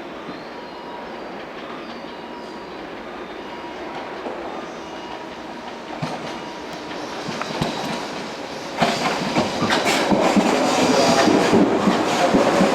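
An electric train running into the station, growing louder. From about nine seconds in, its wheels clatter loudly over the rail joints and points with a dense clickety-clack.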